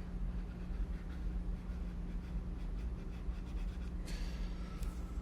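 Steady low hum with faint scratchy friction sounds, and a short hiss about four seconds in.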